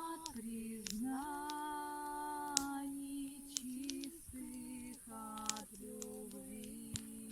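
Bayan (button accordion) playing a slow melody of long held notes, sometimes two at once. Scattered sharp clicks sound throughout.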